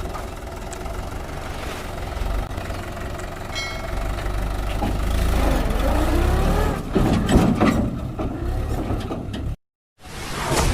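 Mahindra 575 DI tractor's four-cylinder diesel engine running, rising and falling in pitch as it revs around the middle, with a few sharp knocks. The sound cuts out abruptly for a moment near the end.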